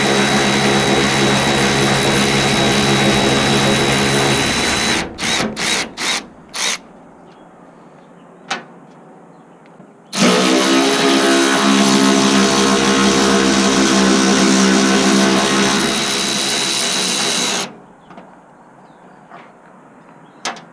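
Cordless power drill-driver spinning bolts out. It runs steadily for a few seconds, gives four quick blips about five seconds in, and makes a second long run from about ten seconds to nearly eighteen.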